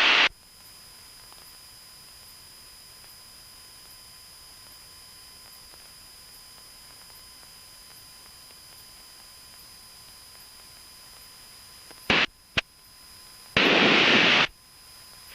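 Aviation VHF radio audio between transmissions: a faint steady hiss with a thin fixed tone. About twelve seconds in come two short clicks, and near the end a loud burst of static lasts about a second as a transmission keys up.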